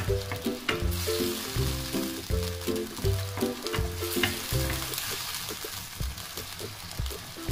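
Meatballs and vegetables sizzling in a wok in a thin sauce while a wooden spatula stirs them, with scattered light knocks and scrapes of the spatula on the pan. Background music plays over it.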